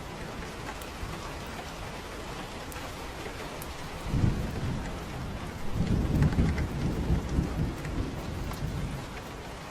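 Steady rain, with a roll of thunder that breaks in about four seconds in, swells louder around six seconds and fades away by about nine.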